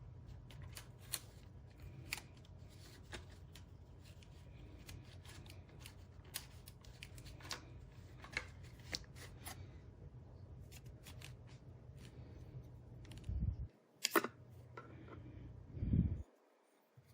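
Scattered small clicks and scrapes of a plastic hard-drive enclosure case being pried at and handled to free its internal clips, over a steady low hum. Near the end come a couple of louder knocks and one sharp click.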